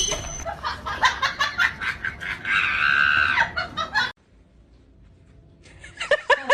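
A person laughing hard in quick repeated bursts, with a long high-pitched shriek about two and a half seconds in. The sound cuts off suddenly about four seconds in, and a new round of laughter starts near the end.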